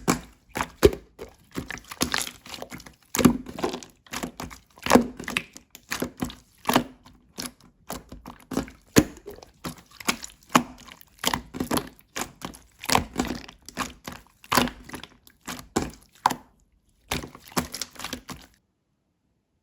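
Slime being squeezed and pressed by hand, giving a rapid run of clicks and pops in repeated clusters about every couple of seconds; it stops suddenly near the end.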